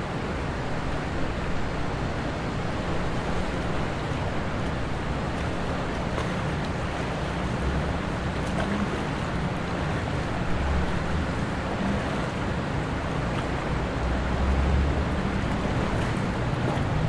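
Steady outdoor rushing noise with wind buffeting the microphone in low rumbles that swell and fade several times.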